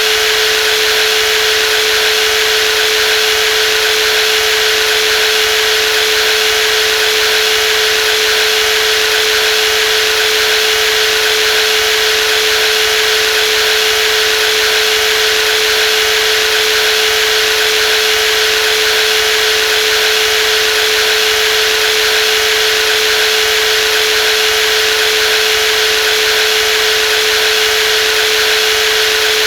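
Brushless jigsaw running steadily, its motor giving one constant whine over a hiss, with no change in speed.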